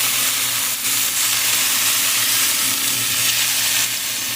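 Pork sausage frying in a pan, sizzling steadily.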